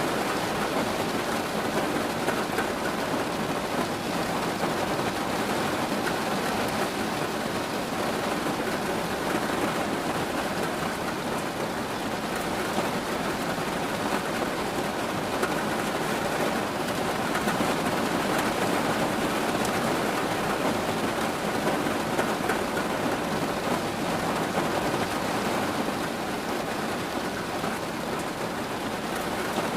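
Steady, even rainfall with no breaks or single louder events.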